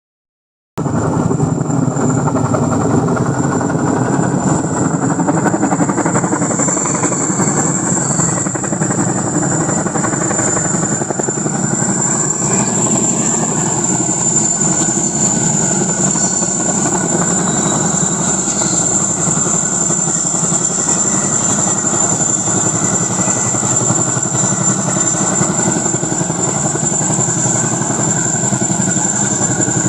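Chinook tandem-rotor helicopter running steadily, with the fast chop of its rotors under a steady high whine.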